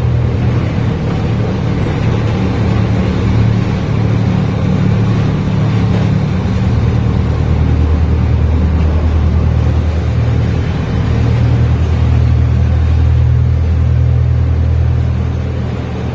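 Miniature passenger train running through a tunnel: a steady low rumble with a deep engine hum, easing slightly near the end.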